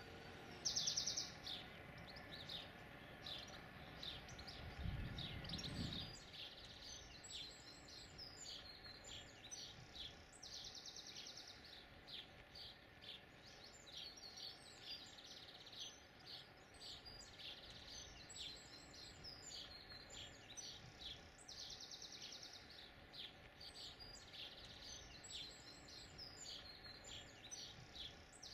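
Several songbirds chirping and singing, with a rapid trill that returns about every ten seconds. A brief low rumble comes about five seconds in.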